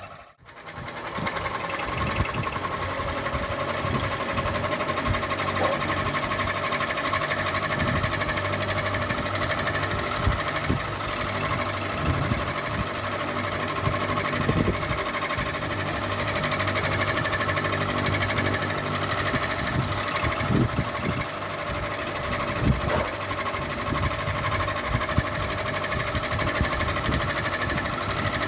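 Electric ceiling fan running with a steady motor hum, mixed with irregular light knocks and rattles. The sound drops out briefly right at the start, then continues unchanged.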